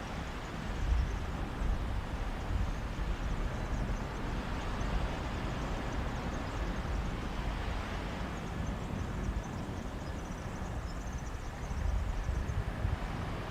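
Sea waves washing on a beach as a steady hiss, with a sea breeze buffeting the microphone in a gusty low rumble.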